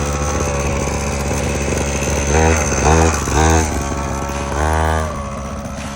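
Mini motocross bike engine running at idle, revved in three quick throttle blips and then a longer one, each rising and falling in pitch, before settling back to idle.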